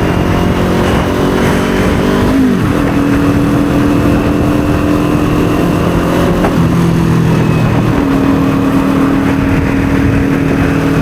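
Kawasaki Ninja 400 parallel-twin engine running under way. Its pitch drops sharply about two and a half seconds in, holds steady, then shifts again twice later on.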